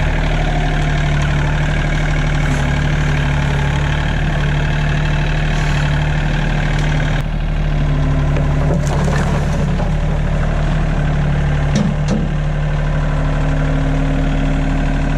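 Tractor engine running at a steady speed, with a few brief clatters over it.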